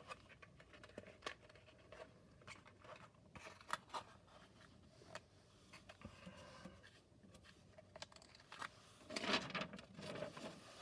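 Cardboard playset pieces being handled and fitted together: scattered light clicks and rubbing, with a louder rustle about nine seconds in.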